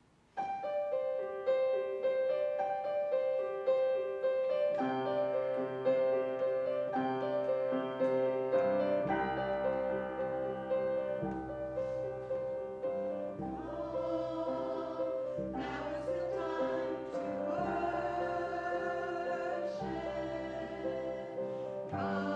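Choral music: a choir singing sustained chords, starting suddenly about half a second in.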